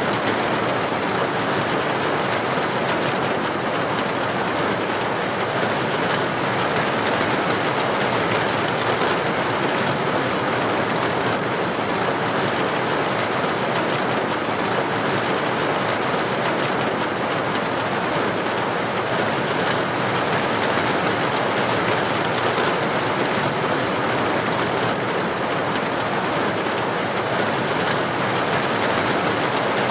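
Heavy rain falling steadily on a street, an even, unbroken hiss.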